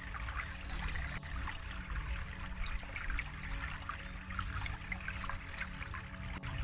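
Water trickling and splashing in many small drops, over a soft, steady low drone of relaxation music.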